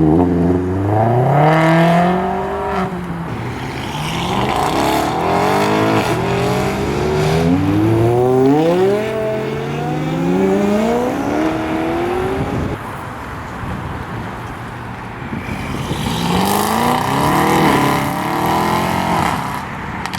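Car engines accelerating hard, the pitch climbing again and again as the revs rise in several pulls one after another, with a quieter lull about two-thirds of the way through.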